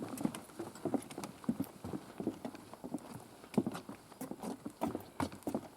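Hikers' footsteps knocking on a wooden bog boardwalk, a hollow clop about two to three times a second at an uneven pace.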